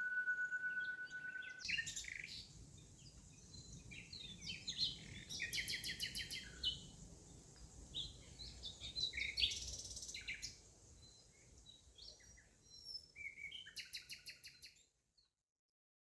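A steady high held note ends about one and a half seconds in. Then several birds chirp and trill in quick, scattered phrases over a low outdoor rumble, cutting off suddenly near the end.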